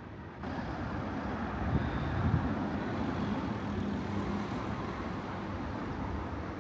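City street ambience: steady traffic noise, swelling slightly as a vehicle goes by about two seconds in.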